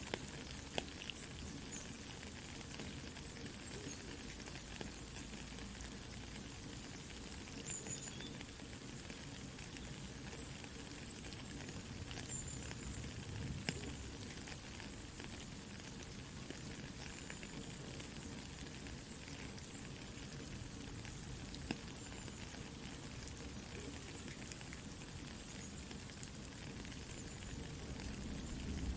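Soft, steady rain with scattered small crackles and pops from a campfire.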